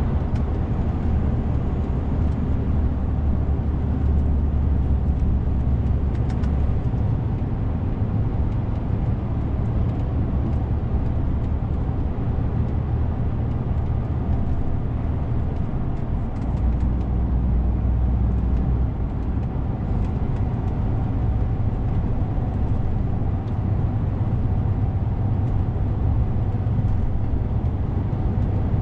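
DAF CF 450 truck's diesel engine running on the road, a steady low drone whose pitch shifts a few times as engine speed changes.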